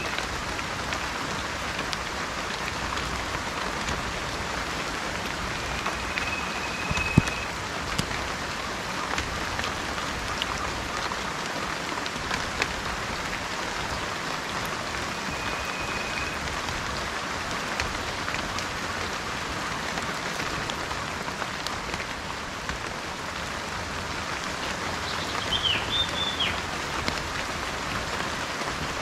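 Steady rain falling, with scattered drop ticks. Brief bird whistles sound twice, and a short chirp comes near the end.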